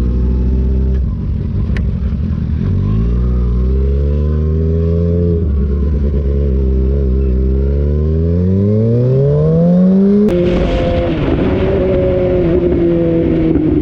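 Motorcycle engine under way, running steadily, then accelerating with its pitch rising for several seconds. The pitch drops abruptly at a gear change about ten seconds in, then holds and slowly sinks.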